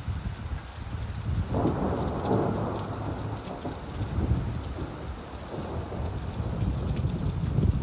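Steady rain, with a roll of thunder that swells in about a second and a half in and rumbles away over the next few seconds.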